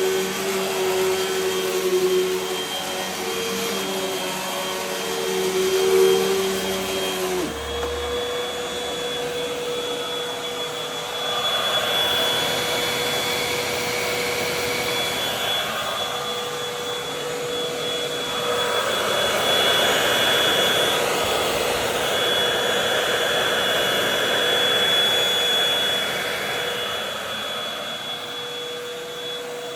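Hoover WindTunnel High Performance Pet upright vacuum cleaner running. Its motor pitch shifts about seven seconds in and then holds steady, under a rushing of air that swells and fades.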